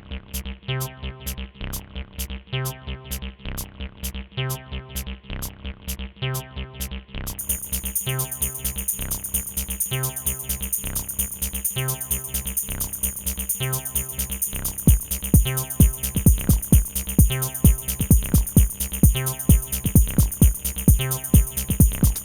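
Acid house played live on Roland Aira gear (P6 sampler, T8 and S1): a looping synth sequence over ticking hi-hats. About seven seconds in a bright, hissy high layer joins, and around fifteen seconds in a heavy kick drum comes in on the beat.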